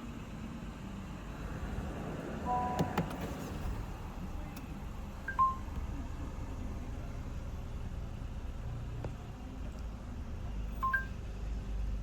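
Honda ZR-V's cabin electronic chimes: short two-note beeps sound three times, about three, five and eleven seconds in, the middle one loudest. Under them runs a low steady engine hum, with a few clicks around the first chime.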